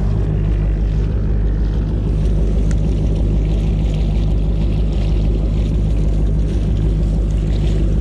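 An engine running steadily with a low, even hum that does not change.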